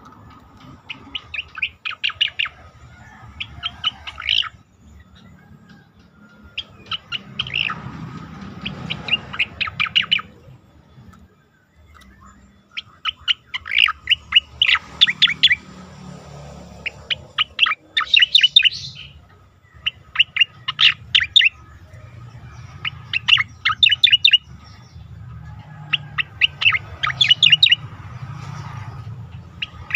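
A cica koreng (striated grassbird) singing: short bursts of rapid, sharp chirping notes, repeated every two to three seconds, with a short pause about a third of the way in. It is a masteran recording, used to train competition songbirds.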